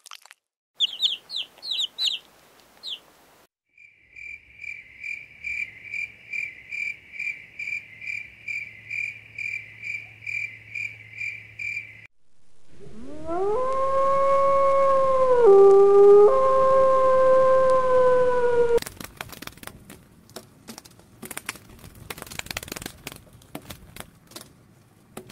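A wolf howling: one long howl, the loudest sound here, that rises and then holds for about six seconds with a brief drop in pitch partway through. Before it come a few quick high chirps and then a steady chirping about twice a second; after it, a run of sharp clicks.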